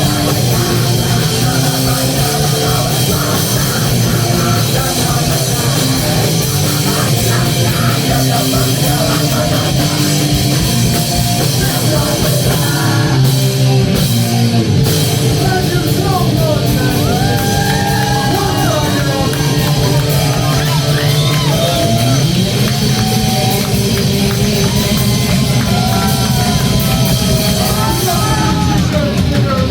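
A rock band playing loud and heavy in a live room, with drums, bass and distorted guitars. From about halfway through, wavering, bending melodic lines ride over the top.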